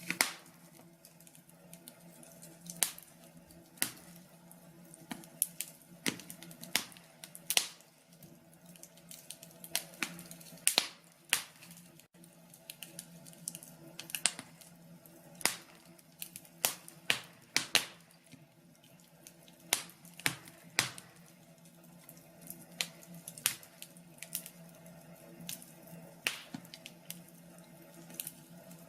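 Wood fire in a fireplace crackling, with irregular sharp pops and snaps, some much louder than others, over a steady low hum.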